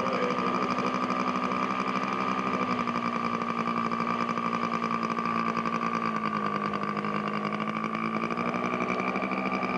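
Radio-controlled scale model airplane's small engine running at a steady speed with a fast, buzzing note. Its pitch dips slightly about six seconds in and comes back up near the end.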